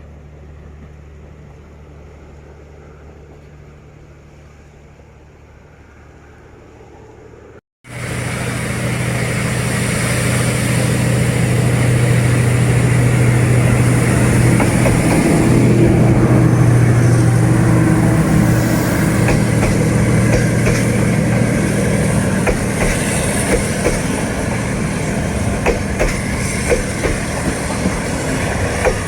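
D19E diesel-electric locomotive's engine running with a steady low drone, faint at first. After a cut about eight seconds in it is much louder, building to a peak and then easing, and in the last few seconds wheels clack over rail joints in an even rhythm.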